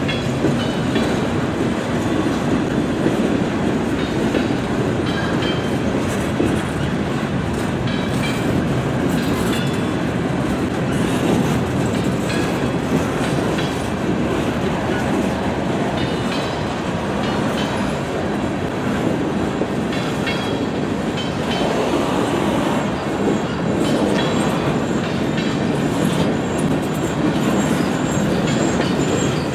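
Freight cars rolling past at a grade crossing: a steady rumble of steel wheels on rail, with the clickety-clack of wheels over rail joints. A thin high wheel squeal comes in near the end.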